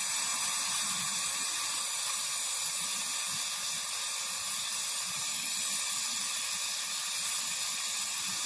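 Gas brazing torch flame hissing steadily as it seals the cut end of a refrigerator's refrigerant pipe.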